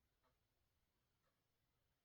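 Near silence: quiet room tone with a faint tick repeating once a second.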